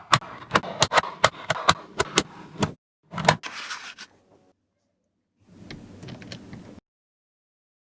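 Magnetic balls clicking against each other in a quick run of sharp clicks, then one louder snap with a short rattle. Later comes a soft shuffling, with silent gaps between.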